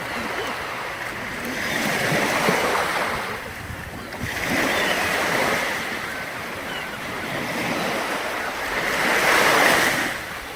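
Sea surf: waves washing in and drawing back in three surges a few seconds apart. The last is the loudest and falls away sharply near the end.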